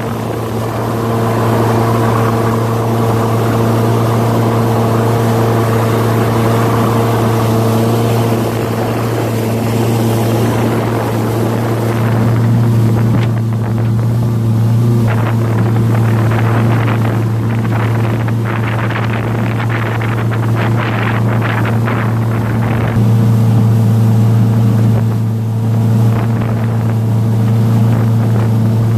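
A motorboat's engine running steadily at cruising speed, a loud even drone, with wind rushing over the microphone; through the middle stretch an uneven crackling rush comes and goes.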